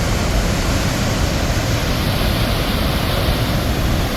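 Large waterfall rushing steadily through a rock gorge: a loud, unbroken noise of falling water, heaviest in the low end.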